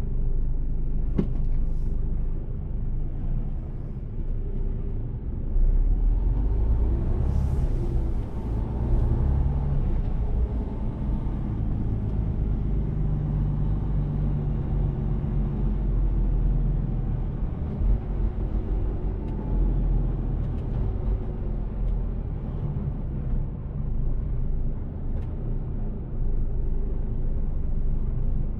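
Mercedes-Benz Actros truck's engine running under way with steady road rumble, its note rising and falling as it drives. A short hiss about a quarter of the way in.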